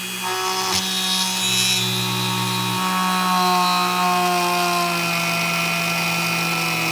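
Dremel rotary tool whining at low speed as its bit drills into a carbon fibre wheelie bar, the pitch sinking slightly as the bit bears into the material.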